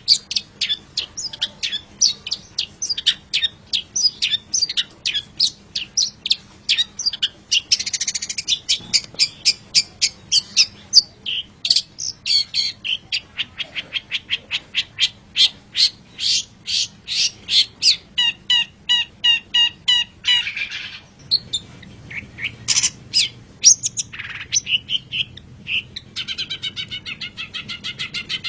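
Long-tailed shrike (cendet) singing a fast, varied song of short, high-pitched chirps and trills, several notes a second, switching to a new repeated phrase every few seconds.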